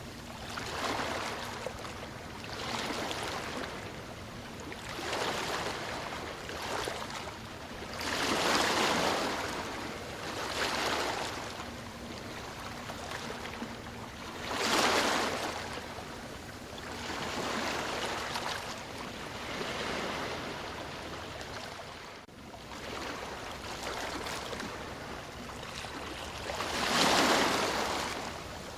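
Ocean waves washing on the shore: a steady hiss of surf that swells and falls back every couple of seconds, with bigger waves breaking about a third of the way in, near the middle and near the end.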